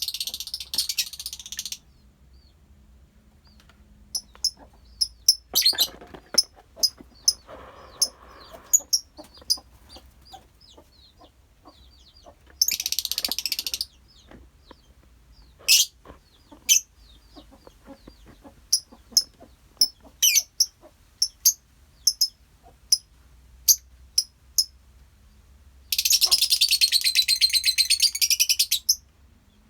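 A colony of lovebirds calling: a scatter of short, sharp, high-pitched chirps, broken three times by a couple of seconds of loud, rapid chattering, near the start, about halfway, and near the end.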